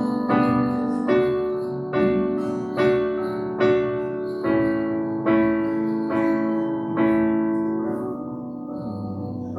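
Worship keyboard music: a slow piano part with a new note or chord struck roughly every second and left to ring, dying away near the end.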